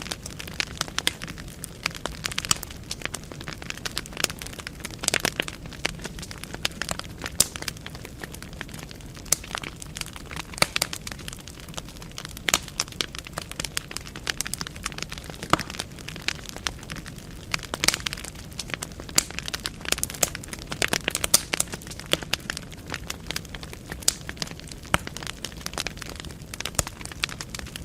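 Wood fire burning in a fireplace: logs crackling and popping with irregular sharp snaps over a low steady hiss of the flames.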